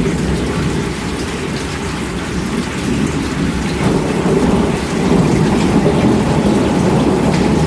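Heavy rain falling steadily, with a low rumble of thunder under it that swells a little about halfway through.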